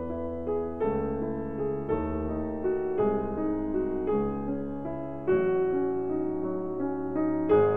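Background piano music, sustained chords changing about once a second.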